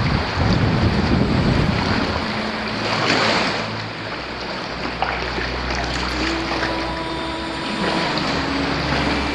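Sea water washing and splashing around a sea kayak, with wind on the microphone; the wash swells louder in the first two seconds and again about three seconds in.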